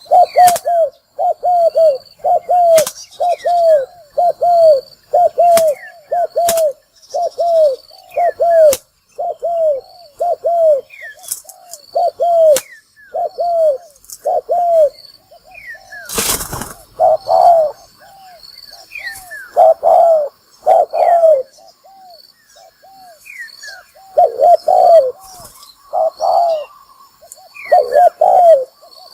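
Decoy spotted dove cooing over and over in quick groups of short, arched coos, the lure call used to draw wild doves to a trap. Sharp clicks come here and there, with one loud rustling burst about halfway through, and small birds chirp faintly and high.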